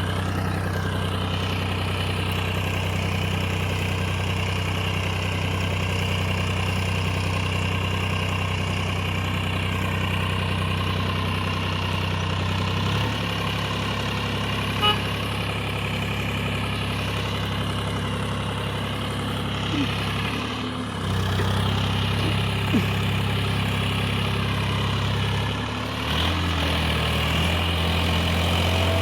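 Massey Ferguson 7250 DI tractor's diesel engine running steadily with a low, even drone. Its engine speed shifts a few times, once near the middle and twice more later on.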